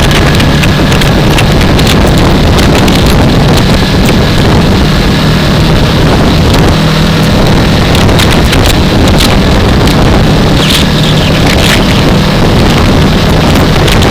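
Wind rushing over a helmet-mounted microphone, with a 2015 Yamaha R3's parallel-twin engine running at a steady pitch underneath while riding.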